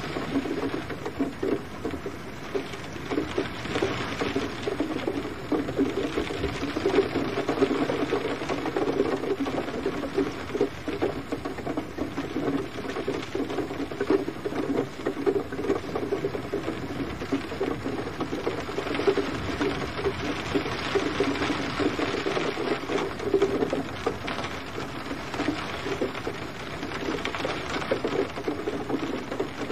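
Gentle rain falling steadily, a dense patter of many small drops.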